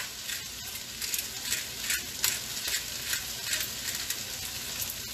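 Cabbage sizzling in olive oil in a large pot, with a spoon stirring and scraping through it in short strokes a few times a second.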